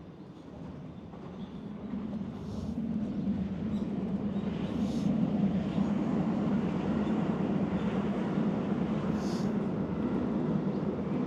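A passing train's steady rumble, growing louder over the first few seconds and then holding, with a few faint brief high squeals or hisses.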